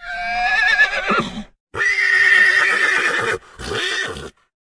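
Horse whinnying in three calls: a quavering call that falls in pitch, then a longer, steadier call, then a short one.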